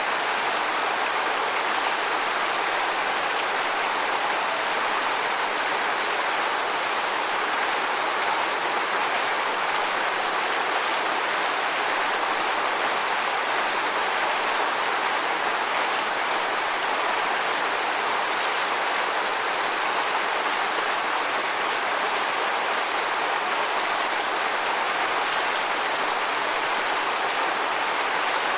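Waterfall: a steady rush of falling water, even and unbroken, with most of its energy in the middle and upper range and little low rumble.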